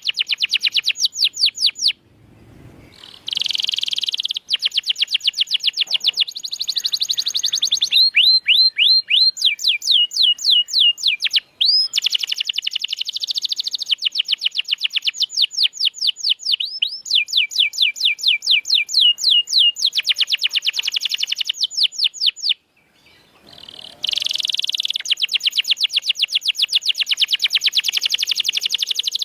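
Domestic canary singing: long rolls of very rapid repeated high notes, switching to a new phrase every few seconds, some phrases made of quick gliding notes. The song breaks off briefly about two seconds in and again near the end.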